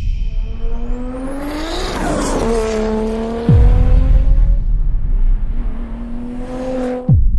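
Car engine revving, its pitch climbing and then dropping away as if passing by. There are two sudden deep booms that sweep down in pitch, about 3.5 seconds in and again near the end.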